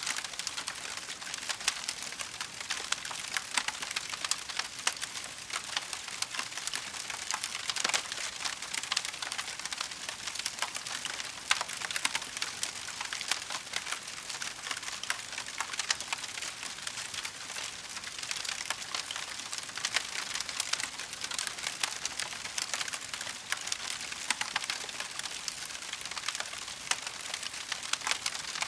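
Wood fire crackling steadily: a dense run of small snaps and ticks with scattered louder pops.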